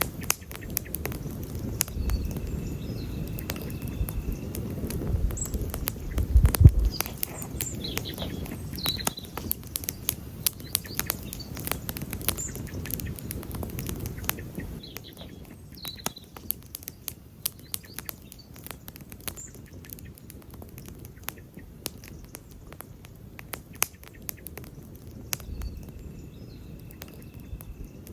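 Wood campfire crackling, with frequent sharp pops and snaps over a low rush of flames; the rush is fuller in the first half, with a louder flare-up about six and a half seconds in.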